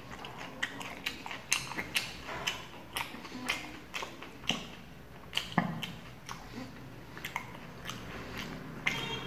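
Close-up eating sounds: wet chewing with irregular mouth clicks and lip smacks, about two or three a second, as roti and cauliflower curry are eaten by hand.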